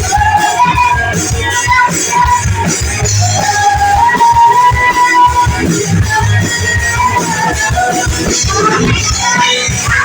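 A rock band playing live, a sung melody over electric guitar, bass and drums with a steady beat.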